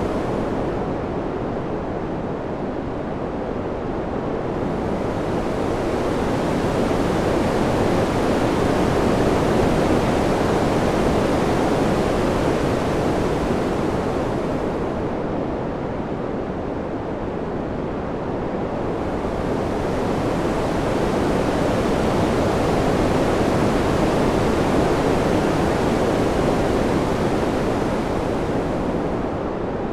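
Ambient wind sound, a steady rushing noise that swells twice and eases back, slowly and evenly, growing brighter and hissier at each swell.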